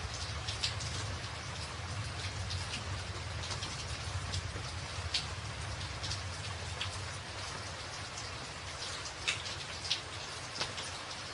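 Steady rain on a tin roof: a continuous hiss scattered with sharp individual drop ticks, a few louder ones near the end, over a low steady rumble.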